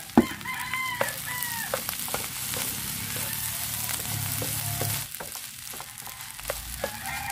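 Fried rice sizzling in a hot pan as a wooden spatula stirs it, with a sharp knock just after the start and scattered clicks and scrapes of the spatula against the pan. A rooster's crow fades out in the first second and a half, and another begins near the end.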